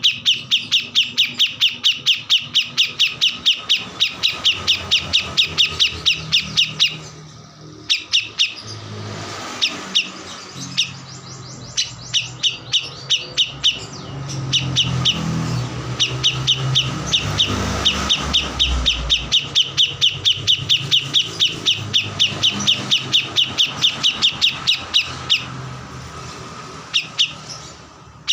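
Kores bird singing hard, a rapid string of sharp, high chirps at about four a second in long runs with short breaks. A low rumble swells underneath in the middle.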